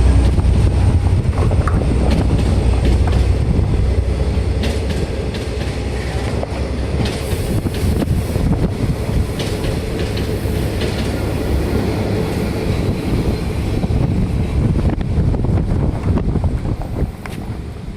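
V/Line diesel train passing at close range, a heavy low rumble with wheels clicking over the rail joints as the carriages go by. The noise eases off and drops away near the end.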